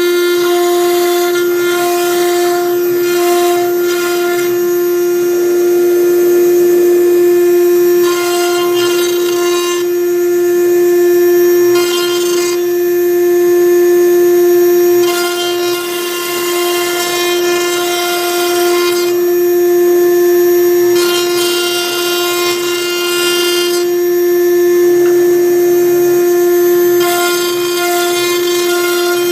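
6090 CNC router's spindle running with a steady, high whine while its V-bit engraves MDF; a cutting hiss comes and goes every few seconds as the machine moves between strokes.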